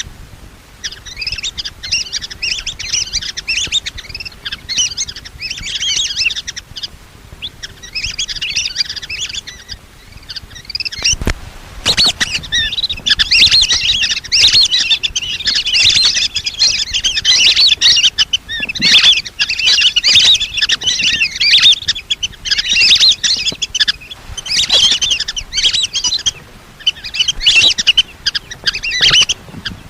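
Lesser whistling ducks calling: a flock's high whistled chatter in repeated bouts a second or a few long, with a sharp click about eleven seconds in.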